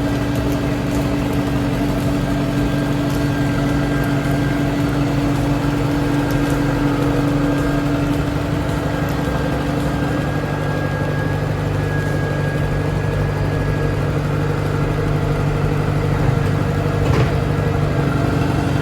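Engine of a piece of earthmoving equipment running steadily, its note shifting about ten seconds in, with a couple of brief knocks near the end.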